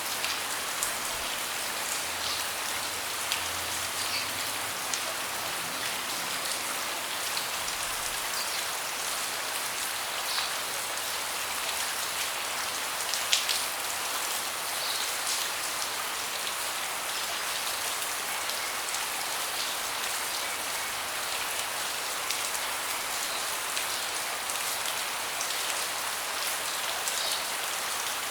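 Steady rain falling, an even hiss with scattered louder drips landing close by; one drip about halfway through stands out as the loudest.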